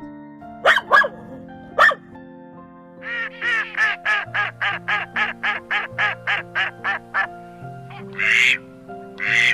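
Animal calls over background music with held notes: three short sharp calls in the first two seconds, then a fast even run of about fifteen short calls, roughly four a second, then two longer, harsher calls near the end.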